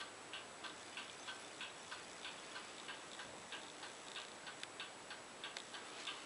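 LG F1443KD front-loading washing machine running its wash, heard as a faint steady hiss with a regular light clicking of about three clicks a second.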